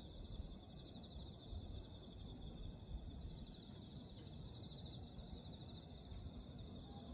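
Crickets or other insects chirping steadily in high, pulsing trills over faint low background noise.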